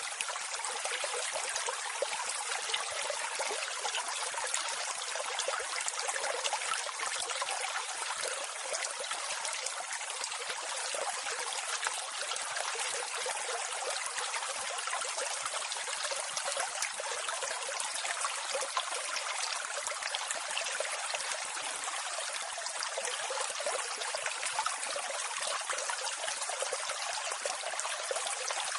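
Water of a small waterfall rushing and splashing steadily, an even hiss with little low rumble.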